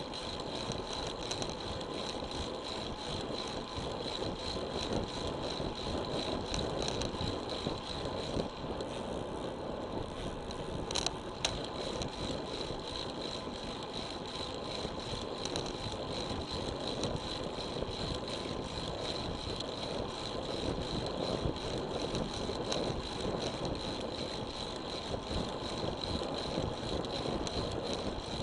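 Steady rush of tyre and wind noise from a road bike being ridden, with two sharp clicks about eleven seconds in.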